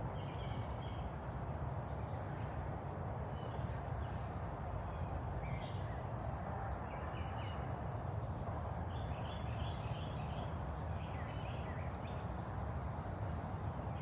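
Birds chirping in short, scattered calls, some in quick little runs, over a steady low background rumble.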